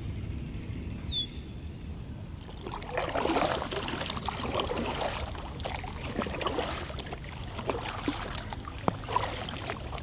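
Water splashing and lapping against a kayak hull. It starts about three seconds in, over a low steady rumble, with scattered small knocks and ticks.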